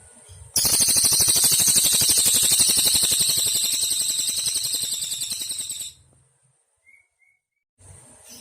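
Cililin bird singing one long, very fast high trill of rapidly repeated notes. It starts suddenly about half a second in, lasts about five seconds, fades slowly and stops abruptly, followed by two faint short chirps.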